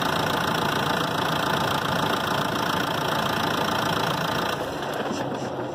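Car engine idling with the air conditioning running, then switched off about four and a half seconds in, the running sound dying away.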